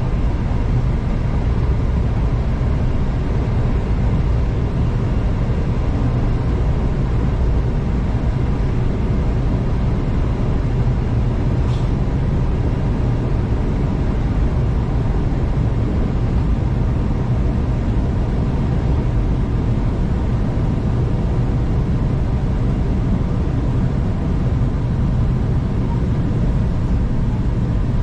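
V/Line passenger train running at speed, heard from inside the carriage: a steady low rumble of wheels on track.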